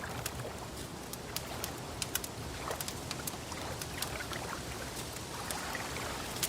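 Wood fire crackling: irregular sharp pops and snaps over a steady low wash of sound.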